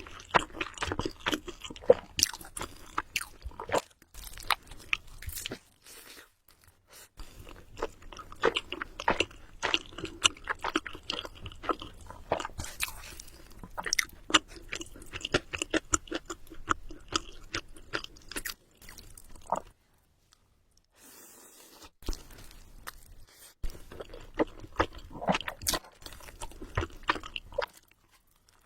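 Close-miked chewing and wet mouth sounds of a person eating Samyang Buldak Carbonara noodles, as dense irregular smacks and crunchy clicks. There are a few short pauses, the longest about two-thirds of the way through.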